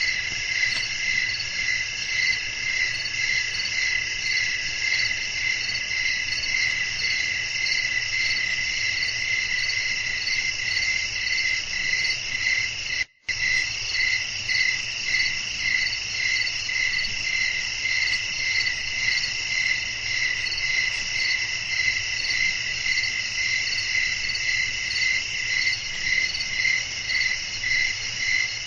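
A dense chorus of crickets chirping steadily, pulsing about one and a half times a second. About 13 seconds in, the sound cuts out to silence for a fraction of a second and then resumes.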